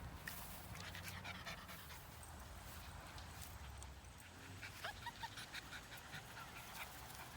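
A small dog panting.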